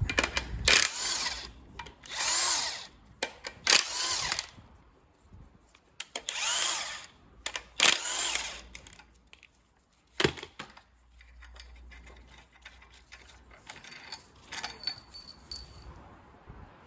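Handheld power tool driving a 16 mm socket in five short bursts of spinning, each rising and falling in pitch, as it undoes the engine mount support bolts; a sharp click about ten seconds in, then quieter handling of parts.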